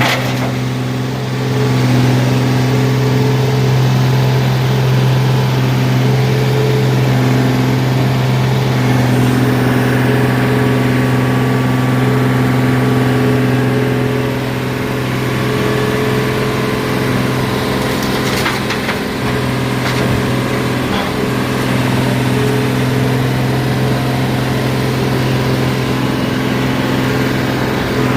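Heavy equipment's diesel engine running at a steady speed with a deep, even hum, and a few faint knocks or rattles about two-thirds of the way through.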